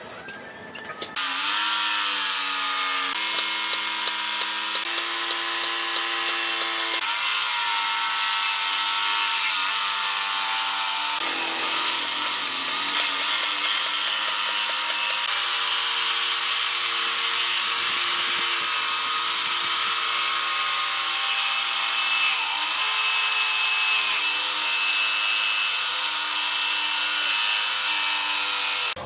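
Power tool running under load in a workshop, a steady whine whose pitch shifts every few seconds. It starts suddenly about a second in and cuts off at the very end.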